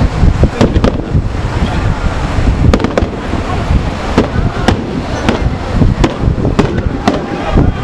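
Fireworks display: aerial shells bursting in a rapid, irregular string of loud bangs, several a second, over a continuous low rumble.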